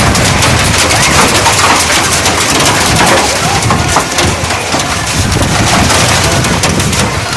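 Heavy rain pouring down, loud and steady, with a dense patter of drops and wind buffeting the microphone.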